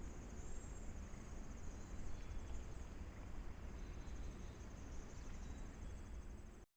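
Insects trilling steadily in a fast, even pulse, over a low rumbling noise floor from the trail camera's microphone. The sound cuts off abruptly near the end.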